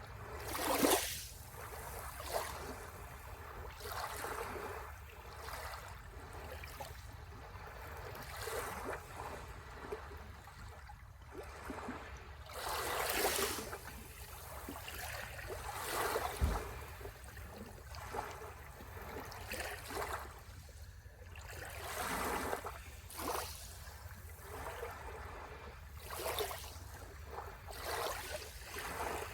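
Small sea waves washing in on the shore, each a short rush of surf coming every one to three seconds over a steady low rumble.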